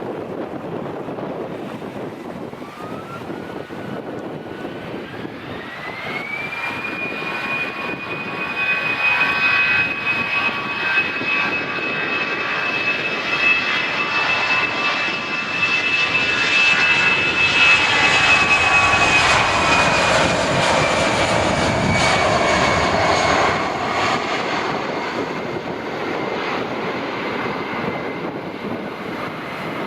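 Jet airliner's engines spooling up, a whine climbing in two steps and then holding steady over a broad roar. The roar grows loudest near the middle as the aircraft passes, then the whine drops slightly in pitch and the sound eases off.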